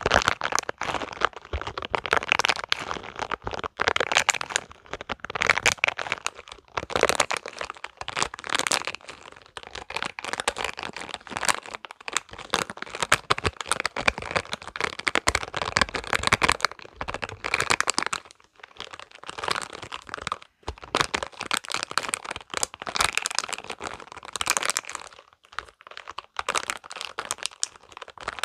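Spiky rubber balls being squeezed and rubbed close to the microphone: a dense, continuous crackling of many small sharp clicks and rubbery rustles, swelling and easing every second or two.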